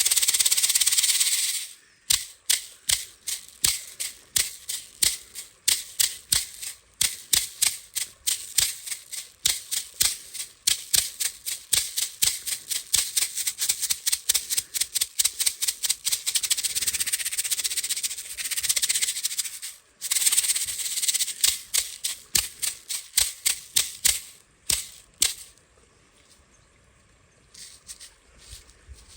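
Buffalo-skin rattle shaken: a continuous shake at first, then a steady beat of about two to three strokes a second, with another long continuous shake past the middle. The shaking stops a few seconds before the end.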